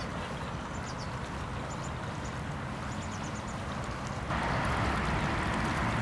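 Steady outdoor rumble with faint high chirps; about four seconds in, the even rushing of flowing creek water comes up suddenly and carries on.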